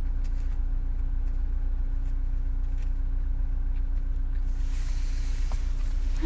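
Steady low hum of a car idling, heard from inside the cabin, with a soft rustle near the end.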